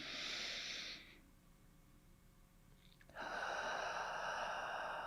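A person taking a slow deep breath: a breath in of about a second, a pause of about two seconds, then a longer breath out lasting about three seconds.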